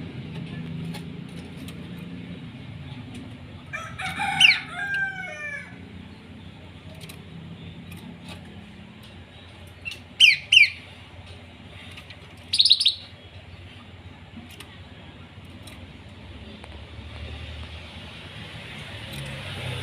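Bird calls over a low steady hum: a longer call of several falling notes about four seconds in, then two short sharp chirps around ten seconds and a third a couple of seconds later.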